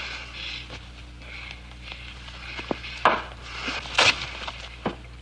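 A handful of sharp knocks and clatters over a faint hiss, the loudest two about three and four seconds in.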